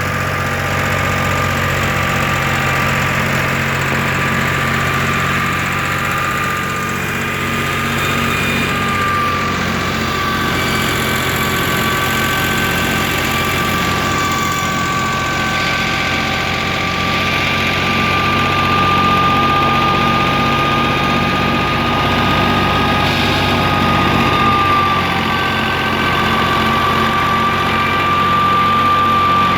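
Fiat 480 tractor's diesel engine running steadily while driving a wheat thresher. A steady high-pitched whine sits over the engine's low drone.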